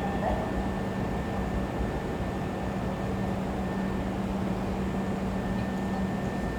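Hankyu electric train at the station platform, giving a steady hum with a faint high whine above it and no change in speed.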